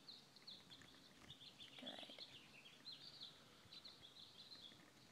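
Faint birdsong: many short, high chirps from small birds, scattered throughout, over near silence.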